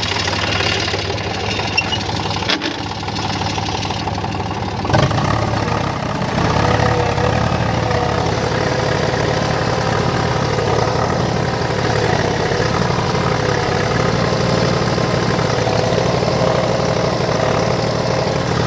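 Tractor engine running steadily, getting louder about five seconds in and holding there.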